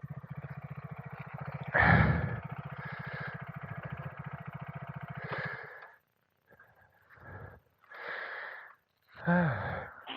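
Motorcycle engine running with a fast, even pulse, with a brief louder burst about two seconds in. It cuts off about six seconds in, and a few short breathy sounds follow.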